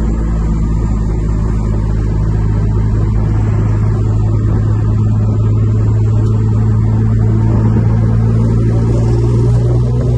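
Infiniti G37 sedan's 3.7-litre V6 heard from inside the cabin while driving, a steady low drone whose pitch rises slowly as the car gathers speed.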